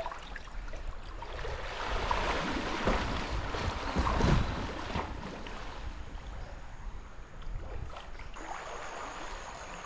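Flowing river water, a steady rushing wash, with wind rumbling on the microphone.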